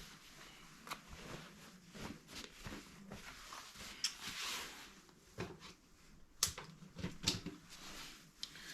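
Faint handling sounds of a dust sheet being taped down: scattered light clicks and knocks, with a short rasp of tape about four seconds in.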